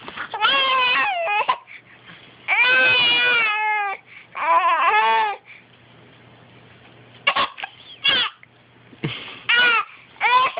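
A baby crying in a series of short wailing cries with gaps between them, fussing and complaining rather than screaming.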